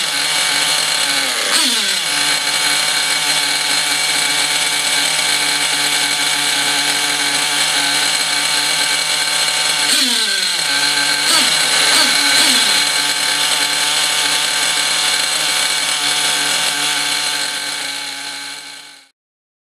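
O.S. Max glow-fuel two-stroke model engine running rich on its break-in run, a steady high buzz that the uploader calls very rough, put down to two-year-old fuel and an unsuited exhaust. The sound is made louder by the wooden crate the engine is mounted on. Twice the revs drop sharply and settle, and near the end the sound fades and stops.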